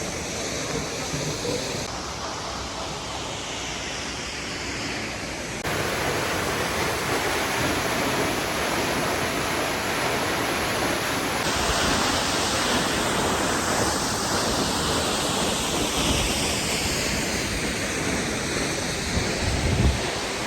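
Catarata del Toro waterfall: a steady rush of falling water that gets louder about six seconds in. There is a brief low rumble near the end.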